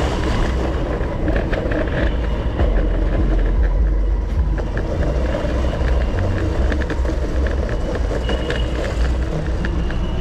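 Skateboard wheels rolling on street pavement, a steady loud rumble with scattered clicks, heard alongside car traffic.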